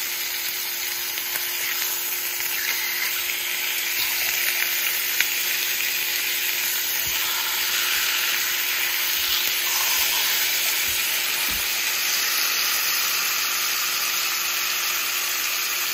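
Pork chops frying in hot oil in a skillet: a steady sizzle, with a few faint clicks as they are turned.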